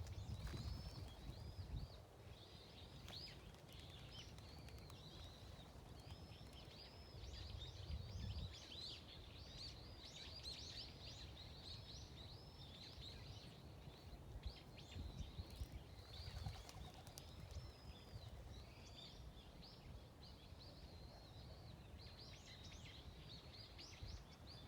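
Small birds chirping: many short, high calls overlapping without pause, over a faint low background rumble.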